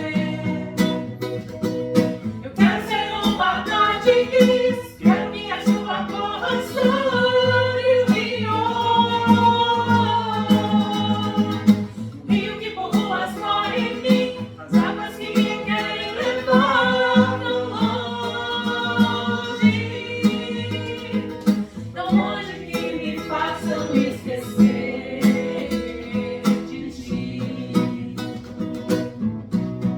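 A small vocal group singing a song in harmony over a strummed acoustic guitar, with short pauses between sung phrases.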